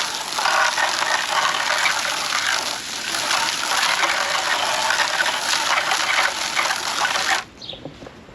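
Water spray hitting a car's tire and wheel during rinsing: a steady hiss that cuts off suddenly a little over seven seconds in.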